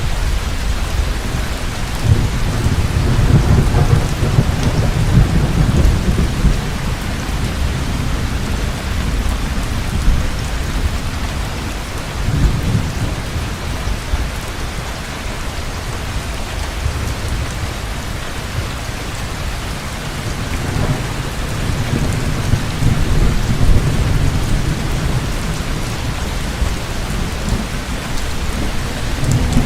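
Heavy rain falling steadily, with rolling thunder rumbling low several times: a long roll a couple of seconds in, a shorter one about twelve seconds in, and another long roll from about twenty seconds in.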